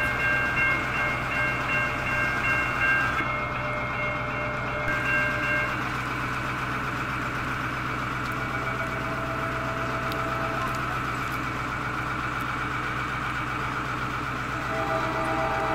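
A train passing through a railroad grade crossing, a steady rumble, with its horn sounding a broken chord of notes during the first five seconds or so.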